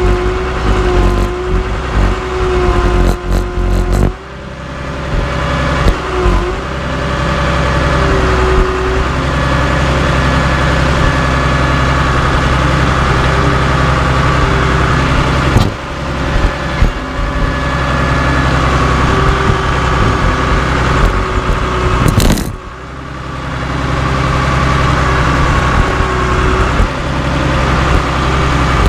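Cat D3C LGP bulldozer's diesel engine running steadily under load, easing off briefly twice. A few sharp knocks, the loudest just before the second ease-off.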